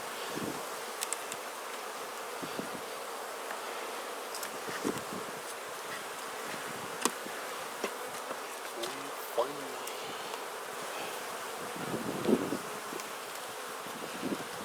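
Honeybees buzzing steadily around an open Langstroth hive during a frame-by-frame inspection, with a few light clicks scattered through.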